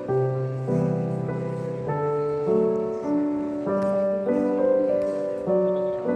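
Background music: a gentle solo piano piece with slow melody notes over low bass notes.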